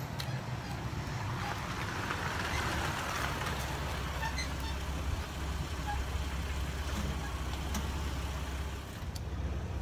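Jeep Wrangler Rubicon engine running as the Jeep rolls up the concrete driveway and comes to a stop. A rolling hiss fades during the first few seconds, leaving a steady low idle rumble.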